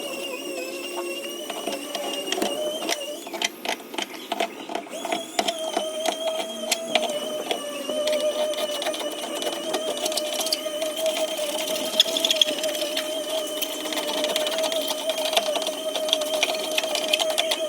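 Quick, irregular metallic tapping on a car door's sheet-metal panel, starting a few seconds in and continuing densely, over a steady high whine that runs throughout.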